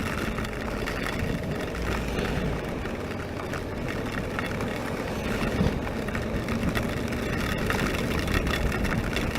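Honda NC700X motorcycle riding through heavy rain on a wet road: a steady, even rush of engine, wind and wet road noise with no change in pace.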